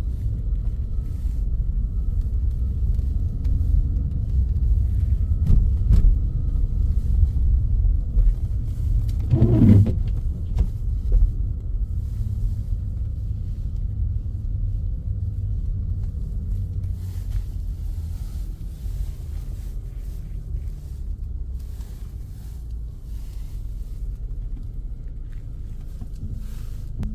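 Steady low rumble of a car driving, with a brief downward-gliding tone about nine and a half seconds in.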